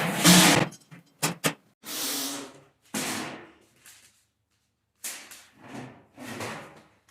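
A run of knocks, sharp clicks and scraping sounds from engine parts and tools being handled during an engine teardown, with a short quiet gap in the middle.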